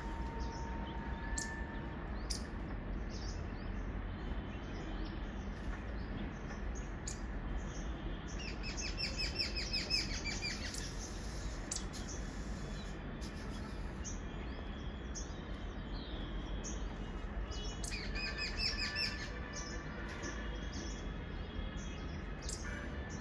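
Birds chirping, with two quick trilled series of high notes, one about nine seconds in and another near nineteen seconds, over a steady low outdoor rumble.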